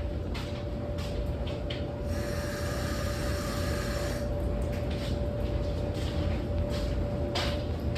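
Water running from a tap for about two seconds, starting about two seconds in, over a steady hum and low rumble, with scattered clicks and knocks of things being handled.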